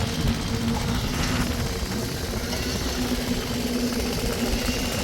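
An engine running steadily, with a constant hum and a low rumble.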